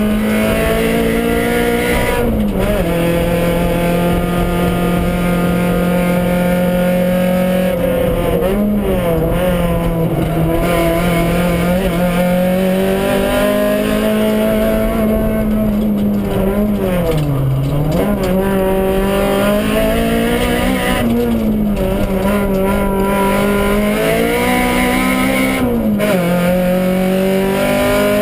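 Honda Civic rally car's four-cylinder engine heard from inside the cabin, running hard at a mostly level pitch. The pitch dips briefly several times, about two seconds in, around nine seconds, deepest a little past the middle, and again near the end.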